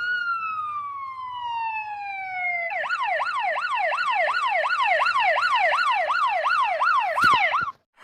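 Emergency siren sound effect: one slow wail falling in pitch, then from about three seconds in a fast yelp rising and falling about three times a second, which cuts off suddenly just before the end.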